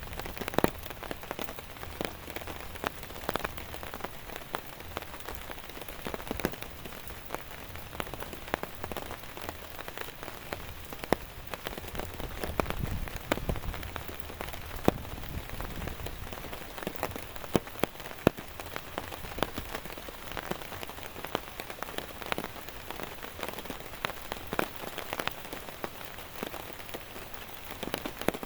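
Steady heavy rain with many close drops striking in sharp, irregular taps. A low rumble swells briefly near the middle.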